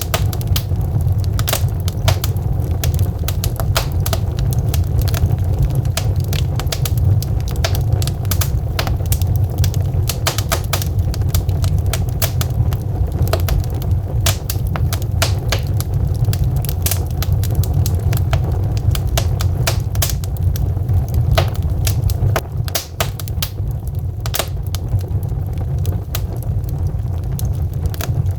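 Wood fire burning in a fireplace: logs crackling and popping in many sharp, irregular snaps over a steady low rumble.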